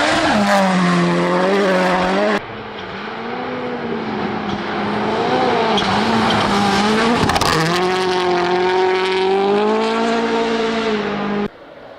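Rally car engine revving hard, its pitch repeatedly climbing and dropping as it is driven through the gears. The sound cuts abruptly twice, about two and a half seconds in and near the end.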